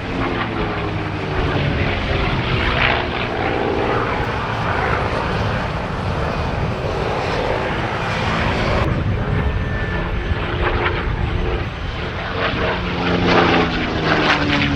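Merlin V-12 engine of a P-51 Mustang in a display pass. The propeller-engine drone changes pitch as the aircraft flies by, and swells louder near the end.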